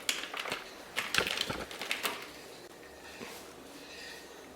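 Paper craft materials handled on a table: a quick series of clicks, taps and paper rustles over the first two seconds or so, then only faint room noise.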